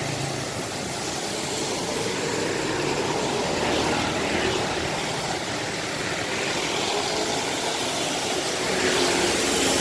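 A large bus's diesel engine running as it drives into the terminal, with a drone that wavers in pitch over a steady hiss, growing louder near the end.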